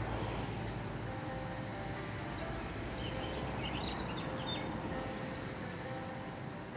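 Small birds singing: a rapid high trill of repeated notes about a second in, then short chirps, over a steady outdoor noise.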